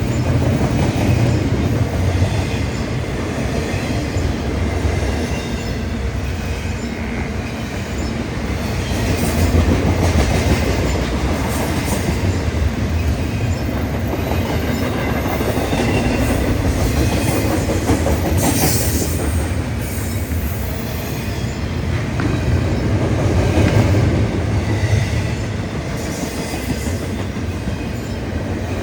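Double-stack container cars of a BNSF freight train rolling past on steel rails: a continuous rumble of wheels that swells and eases, with a brief high wheel squeal about two-thirds of the way through.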